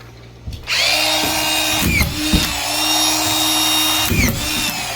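Power drill running for about four seconds with a steady whine. Its pitch dips briefly twice under load, with knocks around each dip, and it stops near the end.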